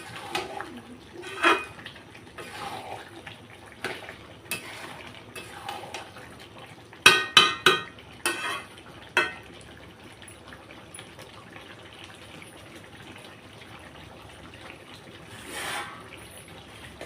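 Metal utensils clanking against a kadhai during curry cooking, with a cluster of sharp ringing clanks about seven to nine seconds in and softer clatter around them.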